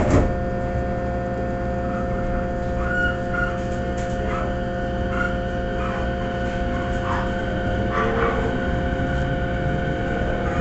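Running sound of an E217 series electric commuter train heard from inside the car: a steady rumble of the wheels on the track with a constant electrical whine, opening with a sharp clack.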